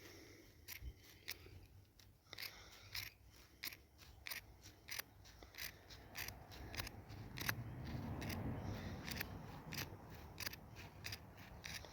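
Scissors snipping through a shirt to cut the sleeves off: a string of sharp, irregular snips, with the cloth rustling louder in the middle.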